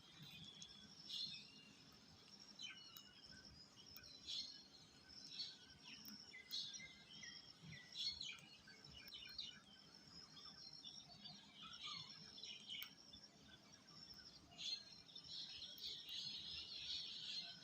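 Birds chirping: many short, high chirps and calls overlapping throughout, busiest near the end.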